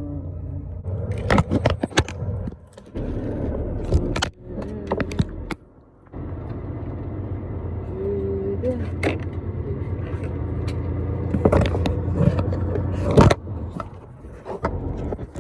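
Inside a moving truck's cab: a steady low engine drone with many scattered sharp clicks and knocks, like rattles or handling noise. The sound drops away briefly a few times.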